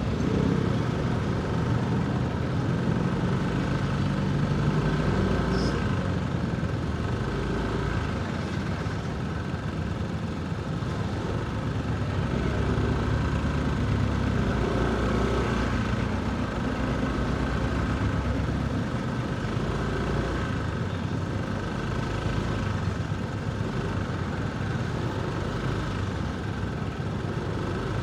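Motorcycle engine running at low, steady speed, with city traffic noise around it.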